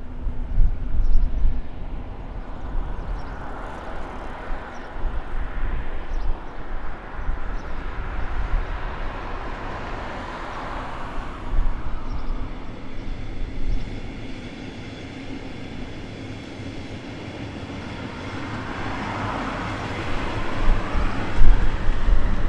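Double-deck regional train crossing a concrete rail bridge: a steady rumble of wheels on rail with a rushing noise that swells and fades in waves as the cars pass. Near the end a louder passing train takes over.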